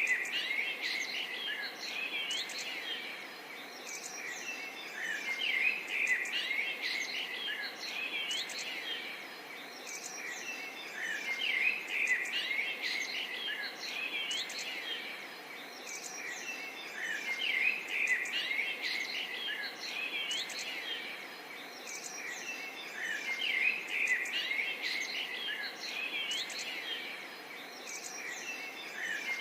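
A dense chorus of many small birds chirping and twittering over a steady outdoor hiss. The chorus swells and fades about every six seconds.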